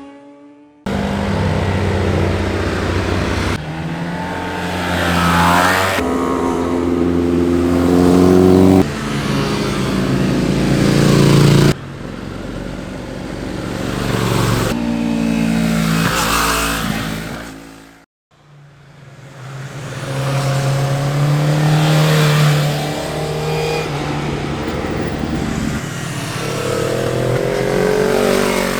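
Several sport motorcycles in turn running past at speed, engines revving, their pitch rising and falling as each goes by. The sound jumps abruptly from one bike to the next several times.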